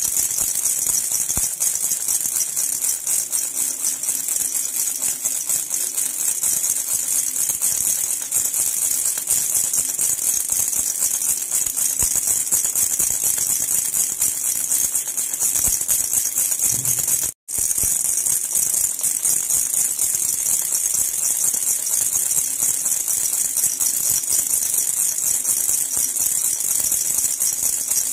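Silver jhunjhuna baby rattle shaken without pause, a dense, bright metallic jingle. It drops out for a split second about two-thirds of the way through.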